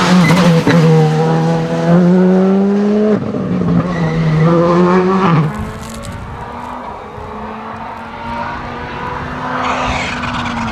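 Rally car engine at full throttle, rising in pitch and dropping twice on quick upshifts, then falling quieter about halfway through as the car moves away, with a steadier, fainter engine note that builds slightly near the end.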